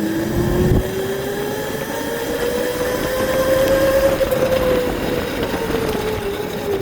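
A ridden bike's motor whine that climbs in pitch over about four seconds as it speeds up, then drops back as it eases off, with wind rushing over the microphone.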